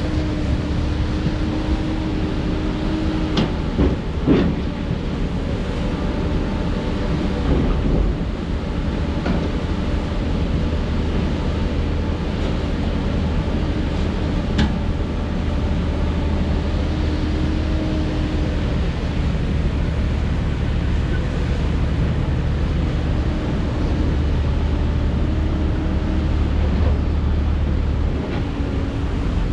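Heavy diesel construction machinery running steadily, with a few sharp metallic knocks about four seconds in and once more near the middle.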